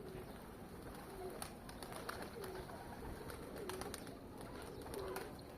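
Domestic pigeons cooing softly: five short coos, about one every second and a bit.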